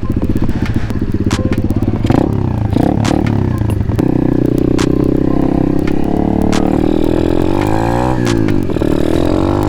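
Pit bike engine running under way, its note growing stronger about four seconds in, then dipping and climbing again a little after eight seconds as the throttle is eased and reopened, with scattered clicks and rattles.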